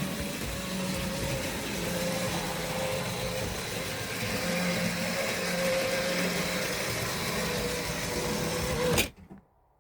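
A Tri-ang model locomotive's small electric motor running steadily around the track with a whirring hum, then cutting off suddenly about nine seconds in.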